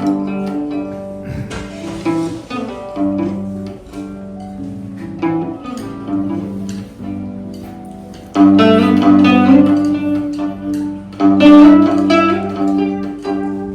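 Plucked string instrument playing a melody of plucked notes over steady held low notes, getting louder about eight seconds in.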